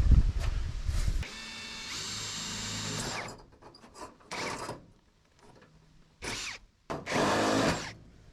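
Power drill running in several bursts, its motor pitch stepping up about two seconds in, with a loud scraping and handling noise in the first second. The drill is cutting a hole in a gutter piece for a downspout.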